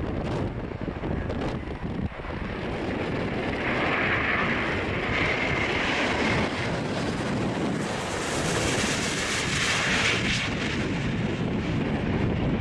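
Airbus A350-900 jet airliner's Rolls-Royce Trent XWB engines: a jet rush that builds a few seconds in, is loudest about two-thirds of the way through, then begins to fade as the aircraft passes. Wind buffets the microphone throughout.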